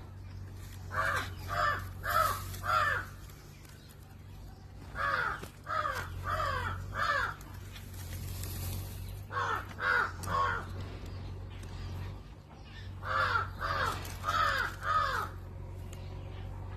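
A bird calling harshly in four bouts of three or four quick calls each, over a steady low hum.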